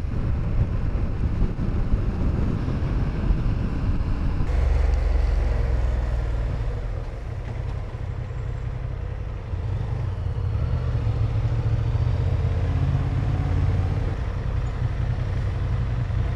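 Honda Hornet 1000 motorcycle running at speed on a wet motorway: steady engine rumble under wind and road noise. The sound changes abruptly about four seconds in.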